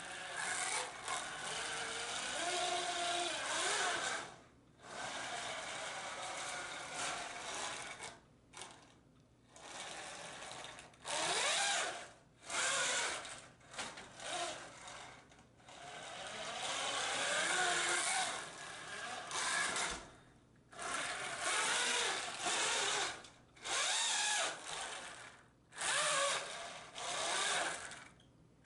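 3D-printed RC tank with dual tracks running in repeated bursts: its drive motors and plastic tracks run for a second to several seconds at a time, with the motor pitch rising and falling, and short pauses between runs.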